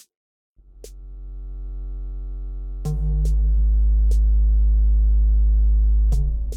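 Software modular synthesizer (Cherry Audio Voltage Modular) playing a slow rhythmic patch: a low sustained bass drone swells in after a brief silence. Sparse sharp percussive clicks fall at uneven intervals, and the held note changes pitch twice.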